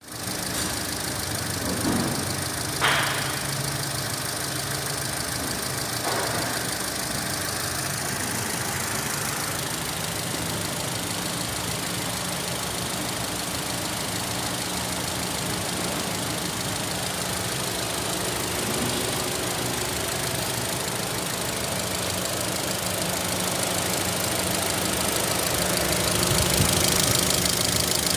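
Holden Cruze 1.8-litre four-cylinder petrol engine idling steadily, with a sharp click about three seconds in.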